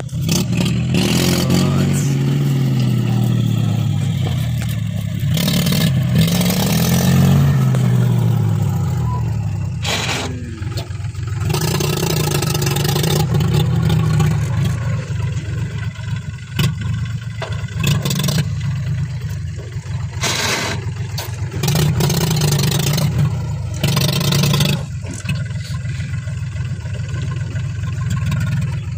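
Diesel engine of heavy machinery revving, its pitch rising and falling over the first several seconds and then running steadier, with bouts of scraping and clatter.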